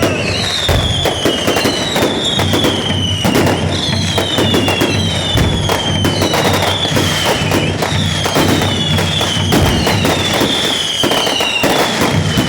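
Fireworks display: a dense barrage of crackling bangs, with a high falling whistle repeating about every second and a half.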